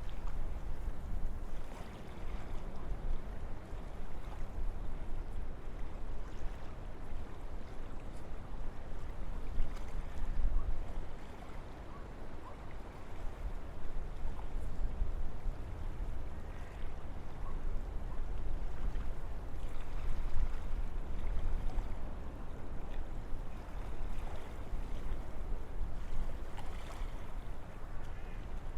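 Wind blowing through forest trees: a steady rushing that swells and eases in gentle gusts, over a constant deep rumble.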